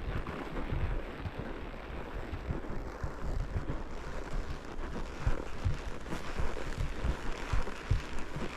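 Wind buffeting the microphone in a low rumble. From about halfway through come irregular soft low thumps, a few a second, from the ridden horse's steps and movement.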